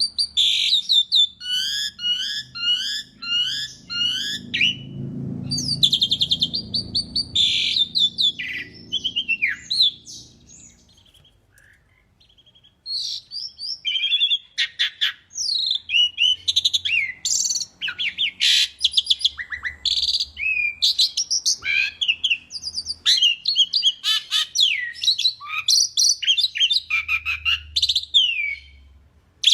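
Asian pied starling singing a loud, varied song of whistles, chatters and quickly repeated notes, falling silent for a couple of seconds about a third of the way through before carrying on.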